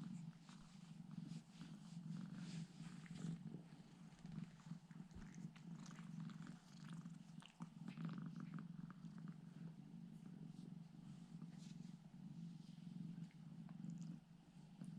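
A domestic cat purring steadily and softly, a continuous low hum that pulses slightly, with faint scattered light ticks and rustles.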